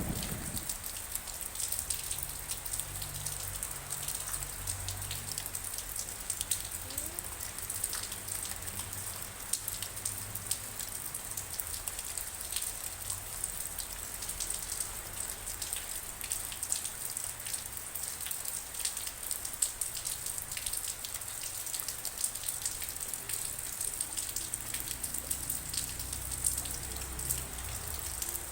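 Steady rain falling on a surface, with many separate drops ticking through a continuous hiss.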